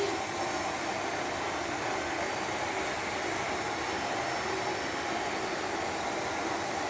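Vacuum cleaner running steadily, a continuous even whir with no change in pitch or level.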